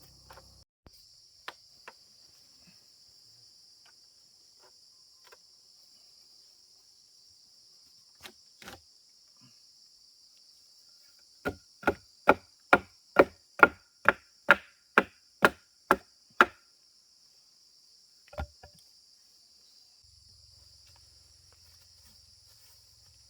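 A run of about a dozen evenly spaced blows of a tool striking wood, a little over two a second, in the middle, with a few scattered knocks before it and a single one after. Insects shrill steadily throughout.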